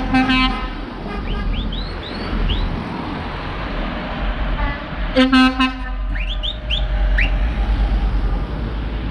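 Vehicle horns tooting in short, rapid blasts at the start and again about five seconds in, each followed by a few quick rising whistle-like chirps, over a steady low traffic rumble.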